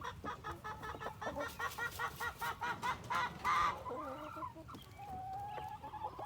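Chickens clucking: a fast run of short, pitched clucks for the first four seconds or so, followed near the end by one longer, held call.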